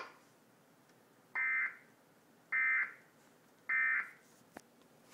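Three short, buzzy digital data bursts about a second apart from a NOAA Weather Radio broadcast: the EAS/SAME end-of-message code that closes the weather statement. A single click follows near the end.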